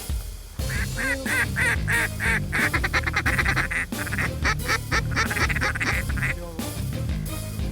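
Rapid series of duck quacks, many short arching notes in quick succession, over background music with a steady bass line.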